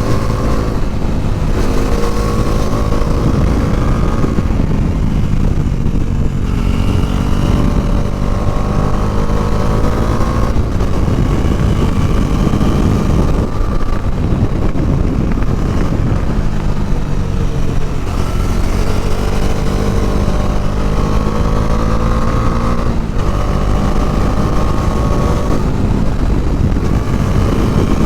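Bajaj Dominar 400's single-cylinder engine, heard from the rider's position, pulling hard: its note climbs for a few seconds and then drops, again and again, as the rider works through the gears and eases off for the bends, with a steady low rush of wind and road under it.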